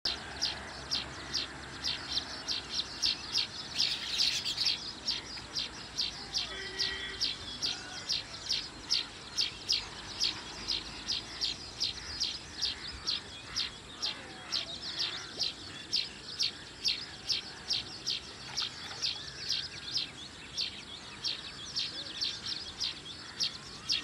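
A bird repeating a short, high chirp over and over, evenly, about twice a second.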